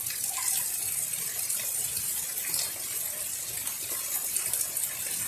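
Steady heavy rain falling, an even hiss.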